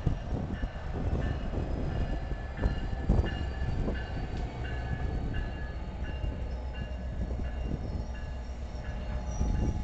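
NJ Transit commuter train of multilevel coaches passing close by: a steady rumble of wheels on the rails, with a short high ringing tone repeating about every half second.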